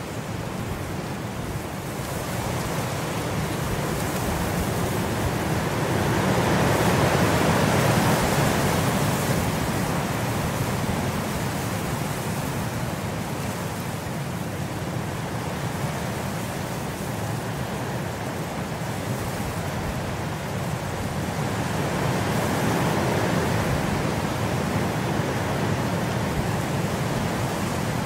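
Steady hiss of rain, a continuous even wash of noise that slowly swells louder and fades back twice.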